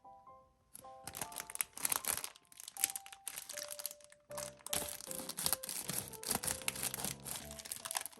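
Plastic wrapper of a packaged snack bread crinkling and tearing as it is opened, a dense run of crackles starting about a second in, over light background music.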